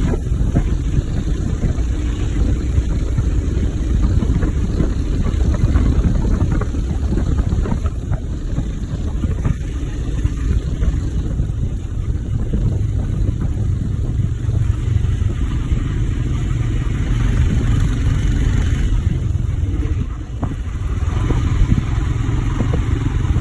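Royal Enfield motorcycle being ridden, its engine running under a heavy, steady rumble of wind on the microphone, with a brief dip in loudness near the end.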